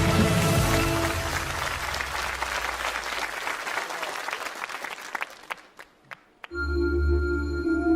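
Audience applause over the tail of music, fading away to near silence. About six and a half seconds in, the music begins again with a low sustained drone and long held tones.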